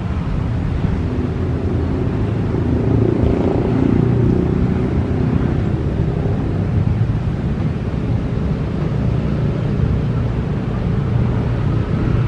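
Whoosh high-speed electric train (KCIC400AF) pulling slowly out of the station, a steady low rumble that swells a little a few seconds in.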